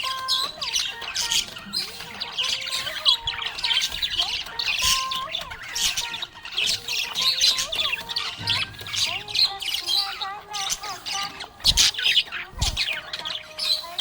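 Budgerigars chirping and chattering continuously in a dense stream of rapid, high chirps and warbles. Two sharp knocks come near the end.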